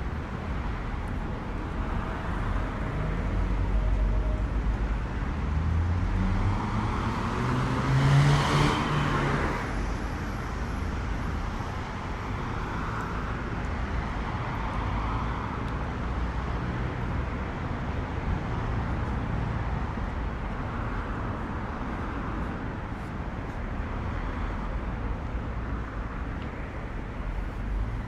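City street traffic: a car accelerates past with its engine pitch rising and is loudest about eight seconds in, then steady traffic noise from the road.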